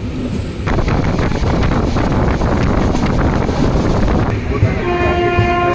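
Wind rush and running noise of a moving passenger train, taken at the train's side. About four seconds in, a train horn sounds one steady note for just over a second.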